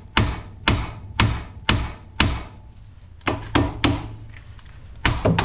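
Hammer blows on steel at the steering knuckle, knocking the tapered ball pin of a Ford Focus tie rod end loose. About five blows roughly half a second apart, a short pause, then three quicker blows and two more near the end, each ringing briefly.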